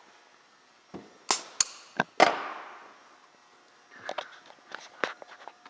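A few sharp knocks and clicks about a second in, the last ending in a short ringing clatter, then several lighter clicks: tools or engine parts being handled after a compression test.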